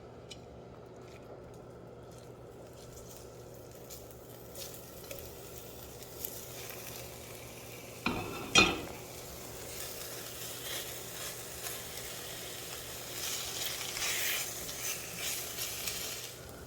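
Food frying in a skillet, sizzling as it is stirred with a utensil. A sharp, loud clatter comes about halfway through, and the sizzling is louder after it.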